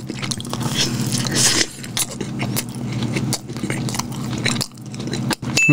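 Close-miked chewing of a bitten pink-glazed sprinkle donut with soft, chewy dough: wet mouth noises with many small clicks and smacks, over a low steady hum.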